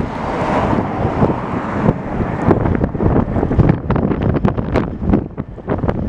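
Strong gusty wind buffeting the microphone: a rough, uneven rumble broken by irregular thumps and crackles, with a rushing hiss in the first two seconds.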